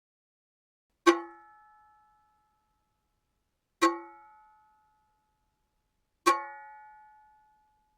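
A spatula struck three times, each hit ringing on several clear pitches and fading over about a second, played back pitched down one octave to bring ultrasonic content into hearing.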